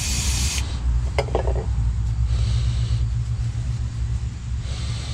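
Short hisses of an aerosol cleaner being sprayed onto the axle end, over a steady low rumble from an unseen source. A couple of small clicks come just after a second in.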